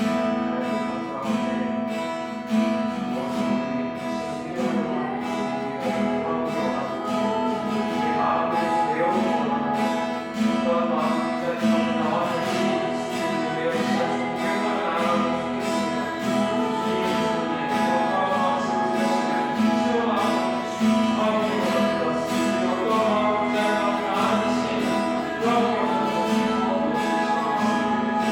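Acoustic guitar strumming a steady rhythm, with a voice singing over it from about eight seconds in: live worship music.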